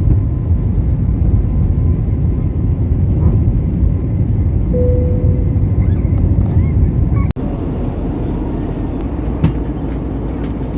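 Steady low rumble of an airliner's cabin with the jet engines running. It breaks off abruptly about seven seconds in and carries on slightly quieter.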